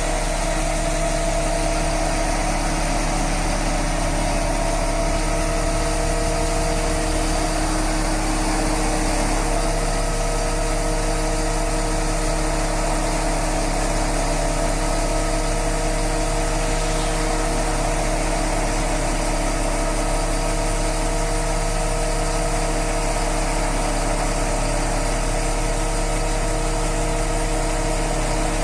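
Mobile crane's diesel engine running steadily. Its tone shifts slightly about ten seconds in.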